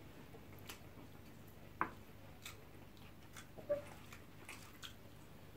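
Faint chewing of jollof rice close to the microphone, with a handful of short, scattered clicks and smacks.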